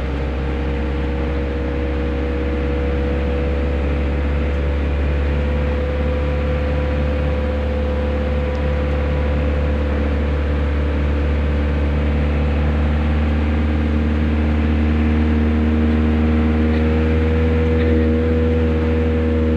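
Steady drone of a vehicle driving, heard from inside the cabin: engine hum over road noise, slowly growing louder and rising a little in pitch near the end as it speeds up.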